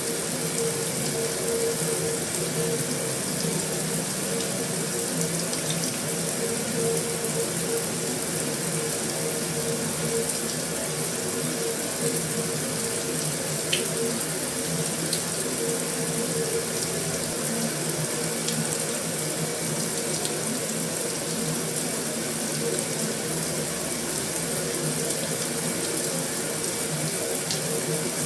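Heavy rain falling steadily on a metal roof, an even hiss with a few faint ticks of single drops.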